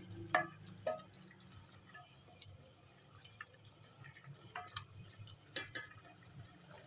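Potatoes and mutton frying in ghee and thick masala, turned with a spatula: irregular wet pops and spatula scrapes against the pot over a steady low hum.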